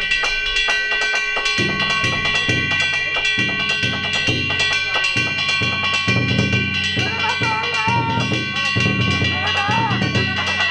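Danjiri float's festival music: taiko drums beating a steady pulse of about one heavy beat a second, with metal hand gongs ringing continuously above them. A wavering high-pitched call comes in over the drums in the last few seconds.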